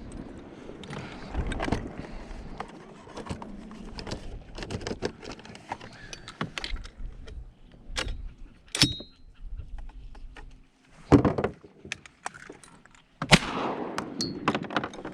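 Two loud shotgun shots about two seconds apart near the end, over a steady run of small clicks and rattles from handling gear in the kayak.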